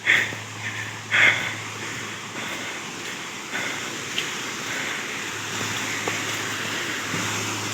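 Waterfall's rushing water: a steady hiss that grows slowly louder, with a few short rustling bursts in the first second or so.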